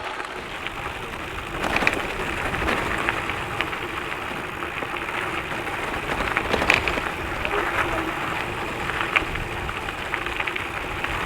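Gravel bike tyres rolling over loose gravel and dirt: a steady rough crunching hiss with scattered small clicks and knocks.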